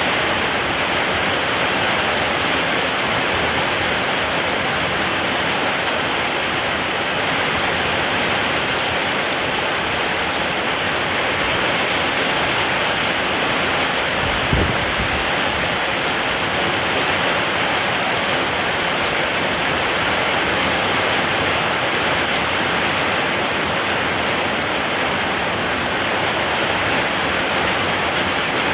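Steady rain falling, a dense even hiss. There is one short low thump about halfway through.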